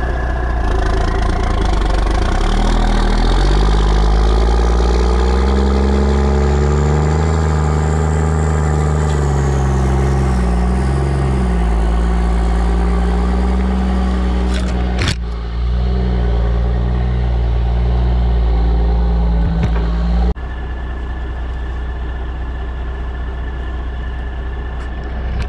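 Dump truck engine revving, its pitch rising and falling for several seconds and then holding steady at high revs, with a sharp click about 15 seconds in and a sudden drop to a lower, steadier running sound about 20 seconds in.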